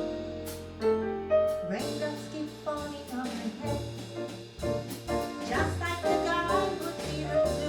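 Live jazz band playing an instrumental passage, with no vocals, over a walking bass line.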